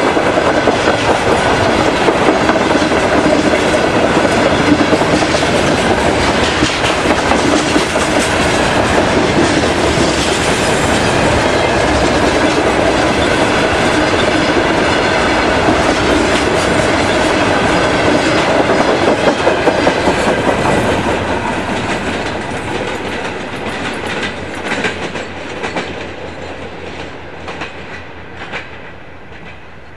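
Freight train wagons rolling past, their wheels clicking steadily over the rail joints. From about twenty seconds in the sound fades away as the train recedes.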